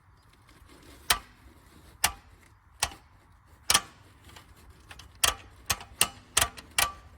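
Sharp metallic clicks and knocks of hand tools on car parts, about nine at uneven intervals, each ringing briefly.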